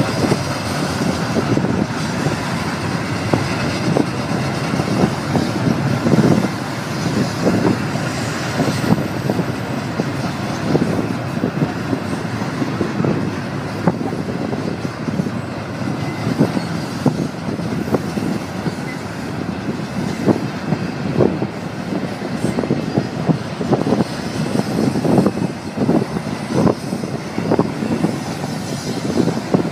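Double-stack container freight train cars rolling past close by: a steady rumble of steel wheels on the rails, with irregular clanks and knocks throughout.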